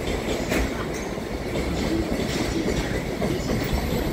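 Koki container flatcars of a freight train rolling slowly past, their wheels clacking over the rail joints above a steady low rumble.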